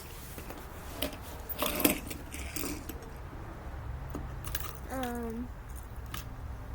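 Small die-cast metal toy cars clicking and clinking as they are handled and set down, in a handful of separate knocks with the loudest cluster a little under two seconds in.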